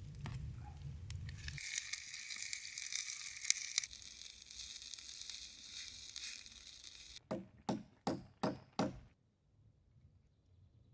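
Food sizzling in a pan with a steady hiss, then five sharp knocks in quick succession.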